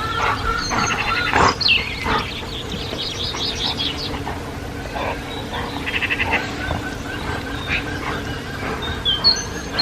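Small birds singing: several quick rattling trills and short sweeping chirps, over a faint steady background hum.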